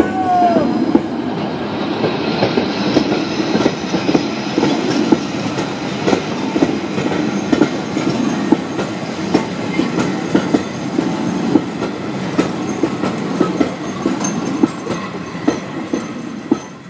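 Vintage passenger coaches of a historic train rolling past close by, their wheels clattering over rail joints with many irregular clicks. The sound fades away near the end as the last coach goes by.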